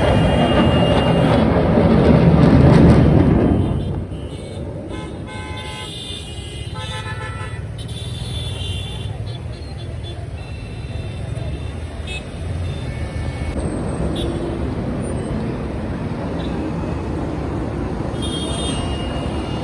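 Roadside traffic with several short car-horn toots over a steady hum of vehicles. It opens with a loud rushing rumble that cuts off sharply about four seconds in.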